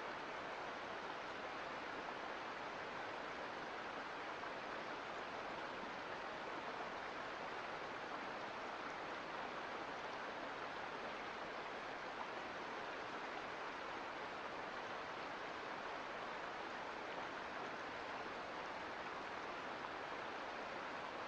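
Mountain creek water rushing steadily over rocks, an even hiss with no change.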